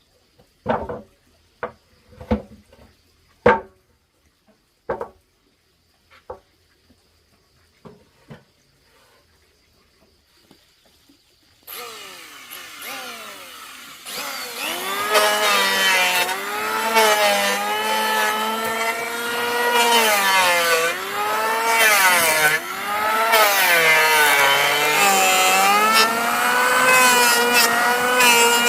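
A series of sharp knocks, then a power saw starts about twelve seconds in and runs on, cutting wood, its pitch dipping again and again under load.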